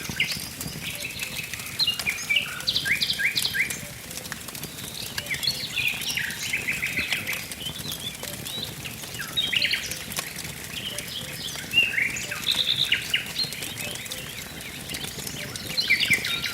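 Songbirds singing short, rapid trilled phrases, one after another every couple of seconds, over the faint crackle and pops of a burning wood fire.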